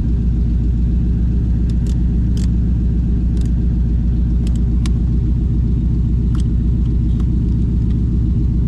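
1974 Chevrolet Corvette's 350 V8 idling steadily through its side-exit exhaust, a constant low rumble. A few light clicks of dashboard heater and fan controls being switched sound over it.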